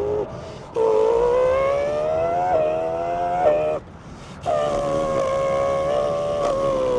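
A man's voice imitating a high-revving Formula 1 engine: a buzzing hum that climbs in pitch with two quick drops like gear upshifts, held fairly steady later on. It breaks off twice for breath, about a quarter second in and around four seconds in.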